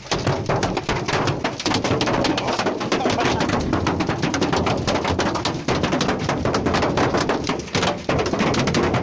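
Hail pelting a hard surface: a dense, continuous clatter of many sharp impacts over a steady rushing noise.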